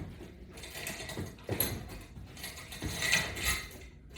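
Scattered light clicks and rattles of resistance-band workout gear being handled, with a louder cluster about a second and a half in and another near three seconds.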